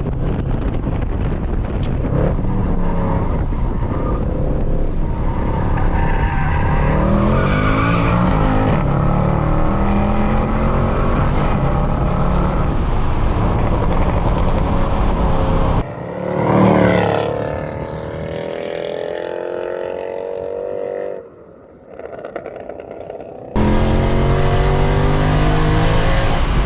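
Mercedes C63 AMG's 6.2-litre V8, straight through a secondary-cat and resonator delete, running hard on track and climbing in pitch as it pulls. About sixteen seconds in the sound breaks off sharply, swells once and falls away, drops almost to nothing for a couple of seconds, then comes back loud under power.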